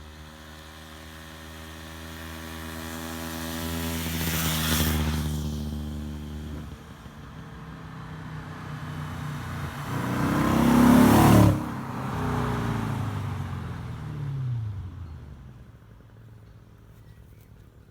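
Two vehicles drive past one after the other. The first engine note builds steadily, peaks about five seconds in, then drops away. The second swells to a peak about eleven seconds in, and its pitch falls as it goes off into the distance.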